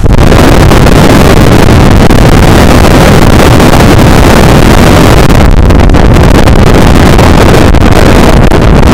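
An air conditioner's airflow blowing straight onto the microphone: a loud, steady rush of wind noise that overloads the recording.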